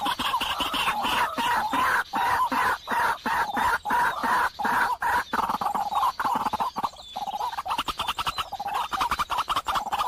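Rapid, continuous chattering bird calls, many quick pulses a second, with a few short breaks.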